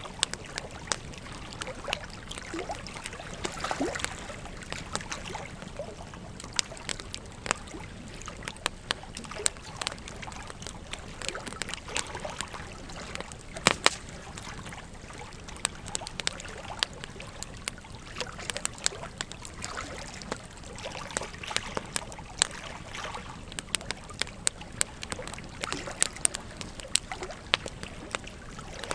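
Wood campfire crackling, with irregular sharp pops, the loudest about fourteen seconds in, over a steady rush of flowing river water.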